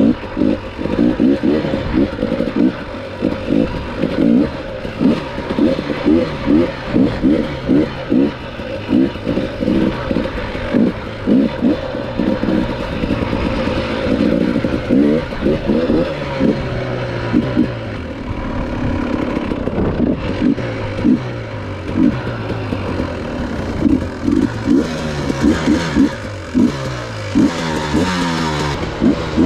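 Dirt bike engine revving up and down over and over, about once or twice a second, as the throttle is worked on an enduro trail ride.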